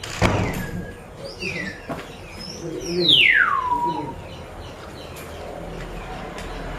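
Birds calling: a sharp knock at the start, a few short chirps, then one loud whistle sliding steeply down from high to low about three seconds in.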